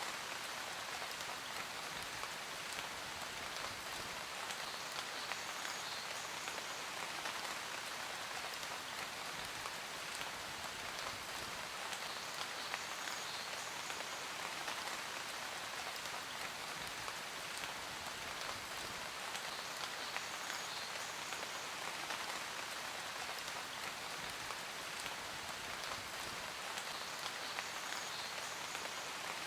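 Steady rain falling: an even hiss of rain with many small drop ticks, unchanging throughout.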